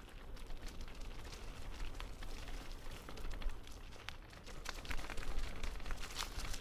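Footsteps crunching on a forest trail: irregular crackles and scuffs over a low rumble.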